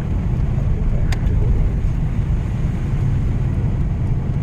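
Steady low rumble of a van's engine and tyres on the road, heard from inside the cabin while driving, with one short click about a second in.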